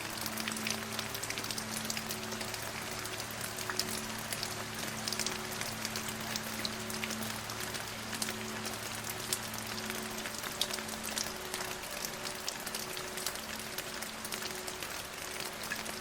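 Steady rain falling, an even hiss speckled with many small drop ticks, over a soft, slowly changing music drone of a few held low tones.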